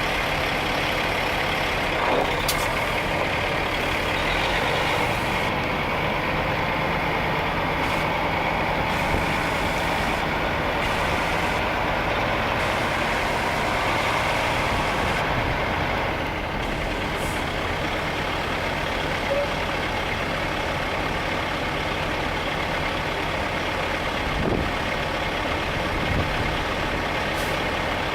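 Freightliner Columbia tri-axle truck tractor's diesel engine idling steadily, with a couple of brief clicks.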